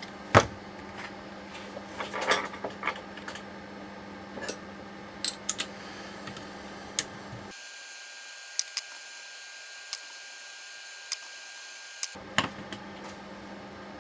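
Scattered clicks and knocks of hand tools and metal parts being handled while a steering rack is taken apart, the loudest knock about half a second in, over a steady low hum.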